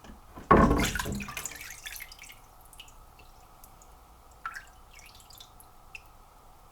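Water splashing sharply about half a second in and dying away over a second or so, then scattered drips and small clicks: meat chopper parts being handled in a citric acid rust-removal bath.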